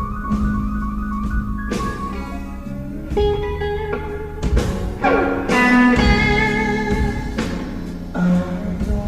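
Electric blues guitar playing sustained, bent notes over a steady low backing, with a sliding note about halfway through.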